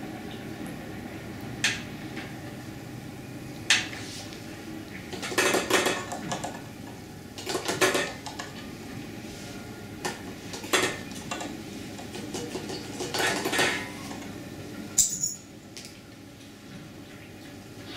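Hard objects clinking and clattering as they are handled, in scattered short bursts over a steady background hum.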